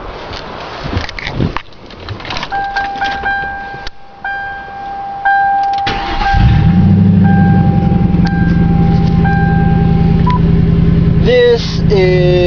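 Clicks of keys and the door, with an on-off warning chime. About six seconds in, the 1999 Ford Crown Victoria's 4.6-litre V8 cranks and starts, then runs loud and steady through an exhaust cut open from the H-pipe back, with no mufflers.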